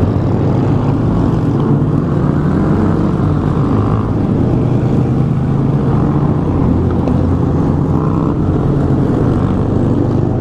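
Honda Grom's 125 cc single-cylinder engine running at a steady cruising pace, the pitch shifting slightly a couple of times, with wind rumble on the camera microphone.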